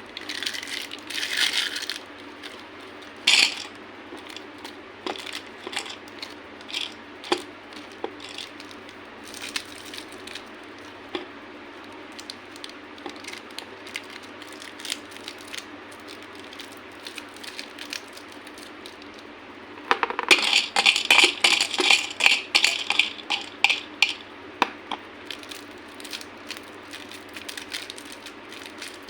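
Candy being crushed: scattered sharp cracks and clicks, with a dense run of crackling about two-thirds of the way through, over a steady low hum.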